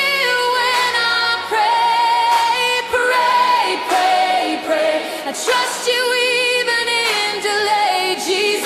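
Contemporary worship song: a woman singing long held notes over a soft instrumental backing.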